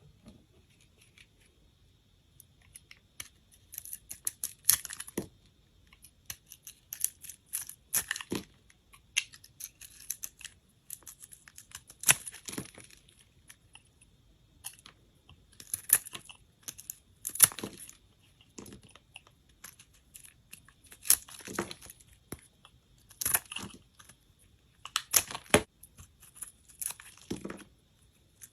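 Knife cutting through dry bar soap into cubes: a series of crisp crackling cuts, a new one every second or two, starting a few seconds in.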